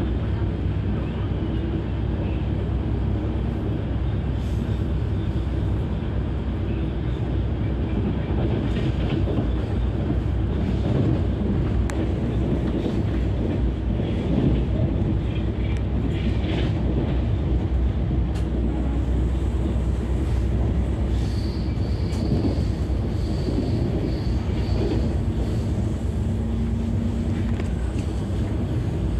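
Passenger train running at speed, heard from aboard a coach: a steady rumble of wheels on rail with some clickety-clack. A faint thin high squeal comes and goes about two-thirds of the way through.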